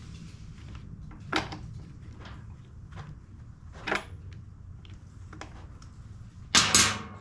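A few sharp clicks and knocks of blower parts and tools being handled on a workbench, the loudest a quick double knock near the end.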